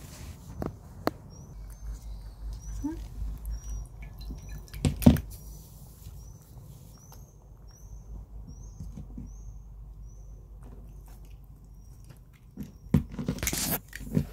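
A small songbird outside repeats a short high chirp about a dozen times, a little more than once a second, then stops. A few sharp knocks cut across it, the loudest about five seconds in and a cluster near the end.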